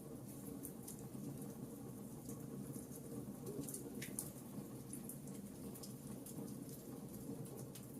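Wood fire crackling in a fireplace: a steady low rumble of burning with frequent small, irregular pops and snaps, one slightly sharper snap about halfway through.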